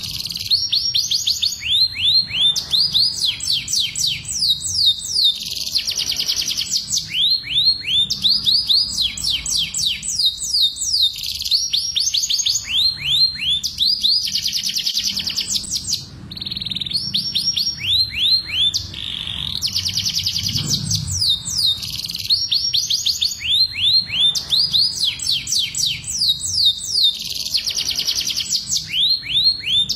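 Domestic canary singing: rapid trills of quick downward-sliding notes, phrase after phrase with brief gaps, in a continuous breeding-season song.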